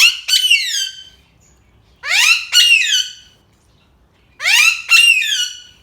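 Alexandrine parakeet calling loudly: three shrill double calls about two seconds apart, each a pair of quick notes that rise and then fall in pitch. This is her morning calling, which the owner takes as a sign she is happy.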